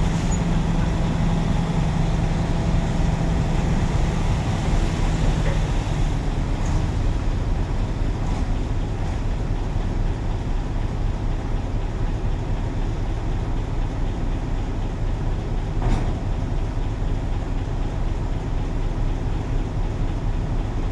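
Truck driving along: a steady engine drone mixed with road noise. A strong low note in the drone drops away about six seconds in.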